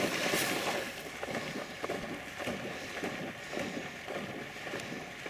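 A dog splashing and wading through shallow marsh water as it goes out to retrieve a downed duck, with a loud rush of splashing in the first second that then settles into quieter, irregular sloshing.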